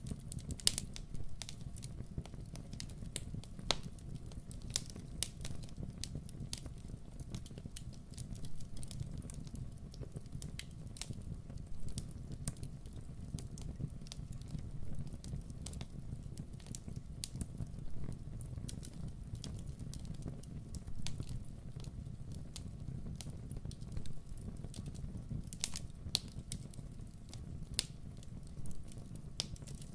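Fire burning in a grill, crackling with irregular sharp pops and snaps over a steady low rumble.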